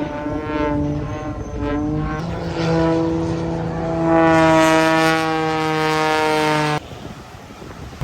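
Horns sounding: a few shorter, pulsing blasts, then one long steady blast of about four and a half seconds that cuts off suddenly.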